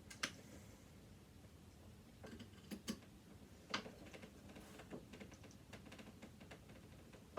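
Faint, scattered clicks and scrapes of a screwdriver working at a screw in a sewing machine, the tip slipping in a screw head that is stripping.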